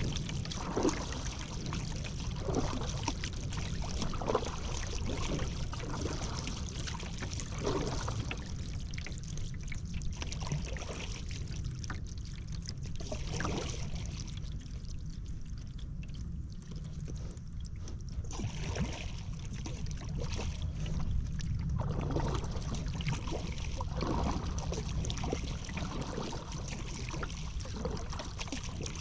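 Paddle strokes in river water: a splash and drip every second and a half to two seconds, stopping for several seconds about halfway through and then starting again, over a steady low rumble.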